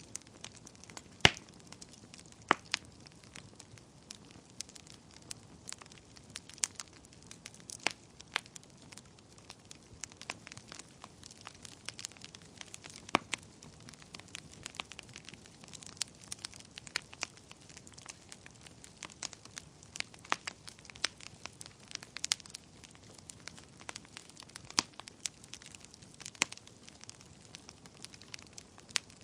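Fire burning in a fireplace, crackling with irregular sharp pops over a faint steady hiss, the loudest pop about a second in.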